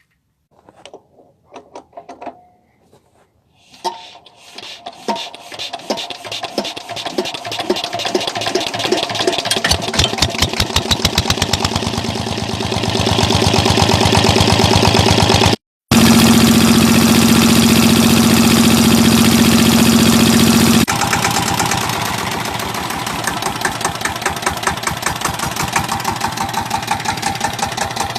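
Old stationary diesel engine starting: a few scattered clicks and knocks, then the engine fires and its beat quickens and grows louder over about ten seconds into a fast, even run. After a brief dropout it runs on steadily with a strong low hum, a little quieter in the last third.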